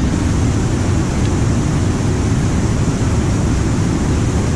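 Waterfall, Cherokee Falls, giving a steady, loud rush of falling water.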